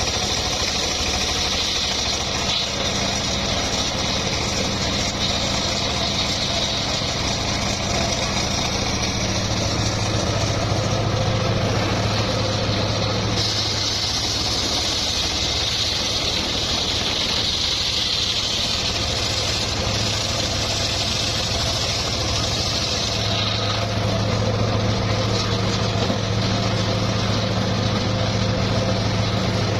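Engine of a homemade circular-saw sawmill running steadily with a low hum. For about ten seconds in the middle, a stronger high hiss takes over as the blade cuts through a teak log.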